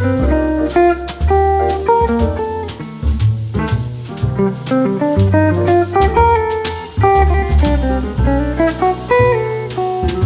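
Background music: guitar-led instrumental with bass and drums.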